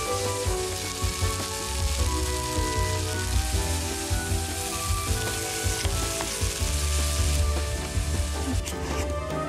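Diced potato and vegetables sizzling in a hot nonstick wok as they are stirred and turned with a silicone spatula, with background music underneath. Near the end the sizzling gives way to a few sharp clicks.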